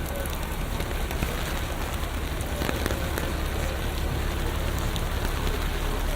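Steady rain falling on a city street, with many small drop ticks over an even hiss, and a constant low rumble of city traffic underneath.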